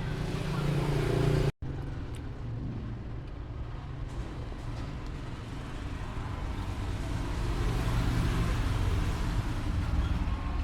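Steady low rumbling background noise that cuts out completely for a moment about one and a half seconds in, then carries on.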